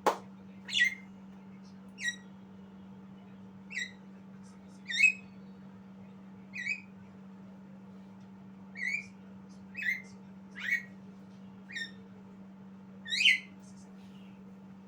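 Javan myna giving about a dozen short whistled notes at irregular intervals, each dropping in pitch, over a steady low hum.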